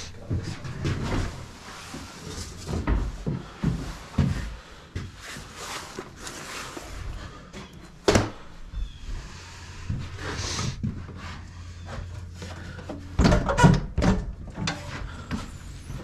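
Irregular clunks and rattles of old Walker mowers being handled while their hydrostatic pumps are checked and unlocked. There is one sharp metallic click about eight seconds in and a louder burst of clattering near the end.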